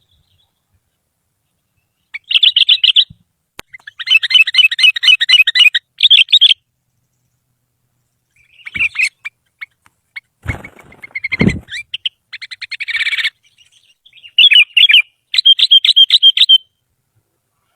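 Sooty-headed bulbul (kutilang) singing in repeated bursts of quick, bright chirping notes, each burst a second or two long with silent pauses between.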